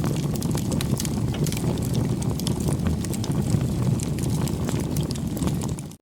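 Wood bonfire burning, a steady low rush of flames with frequent small crackles and pops of burning wood.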